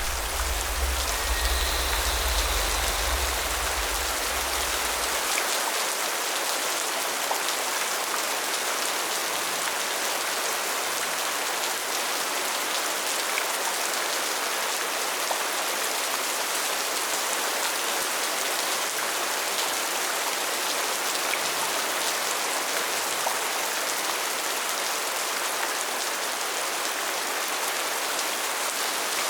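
Steady rain, an even hiss of falling drops. A deep low rumble underneath stops abruptly about five seconds in.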